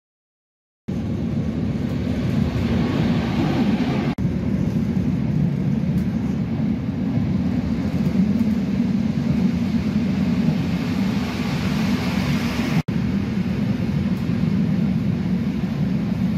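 Train running, heard from inside the carriage: a steady rumble of wheels on track that starts about a second in, with two very brief breaks.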